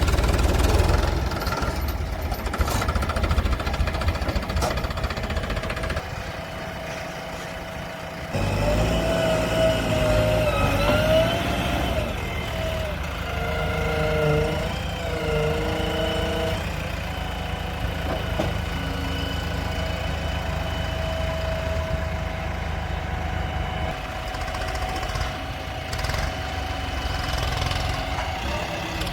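Diesel engines of a JCB backhoe loader and tractor running. The sound changes abruptly about eight seconds in, after which the engine's pitch wavers up and down for several seconds before settling back to a steady run.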